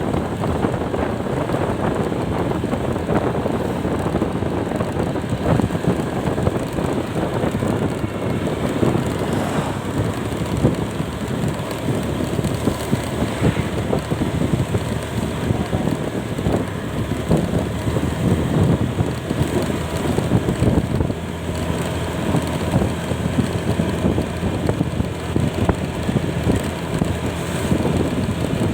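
Wind buffeting the microphone on a vehicle moving in the rain, mixed with rain and road noise, steady throughout.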